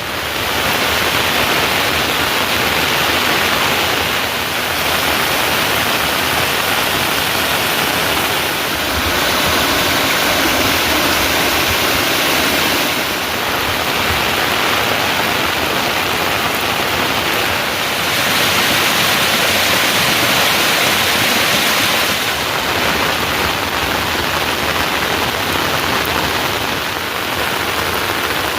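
Heavy rain pouring down: a dense, steady hiss whose loudness shifts every few seconds.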